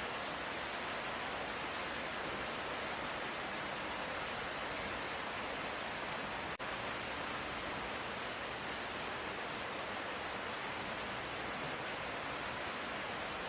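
Steady, even hiss of light rain falling, with no thunder. The sound drops out for an instant about halfway through.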